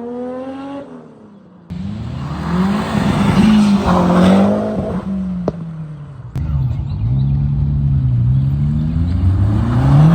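Car engines revving in a string of short segments. One engine's pitch falls off at the start. After an abrupt change about two seconds in, an engine climbs in pitch and holds, and after another sudden change past six seconds an engine runs on with rising and falling pitch.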